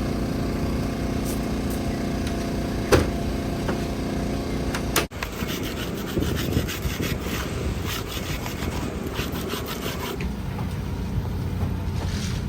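Car engine running at a steady speed, with a single sharp click about three seconds in. It breaks off abruptly about five seconds in and gives way to a rapid, rasping scraping and rattling.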